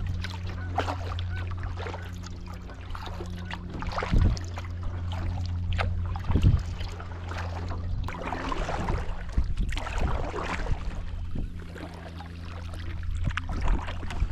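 Canoe paddling: paddle strokes swishing and dripping in the water, with occasional knocks against the hull, the strongest about four and six and a half seconds in. A steady low hum runs underneath.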